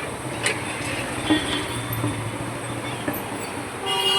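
Busy street background noise: a steady low rumble of traffic with a few sharp clicks. A pitched tone starts right at the end.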